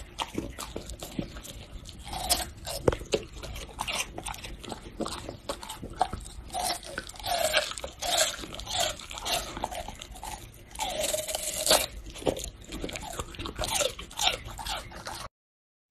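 Golden retriever gnawing on a long dog chew: irregular crunching and biting, cracking and scraping against its teeth, until it cuts off suddenly near the end.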